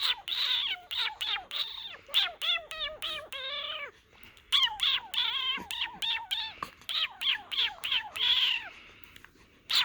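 Baby making a string of short, high-pitched squeals and squeaky vocal noises, some with a wavering, warbling pitch, with a short pause about four seconds in.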